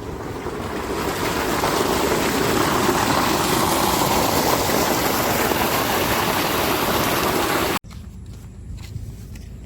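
A loud, even rushing noise like pouring water or rain, swelling over the first couple of seconds and then cut off abruptly near the end, leaving a quieter low rumble.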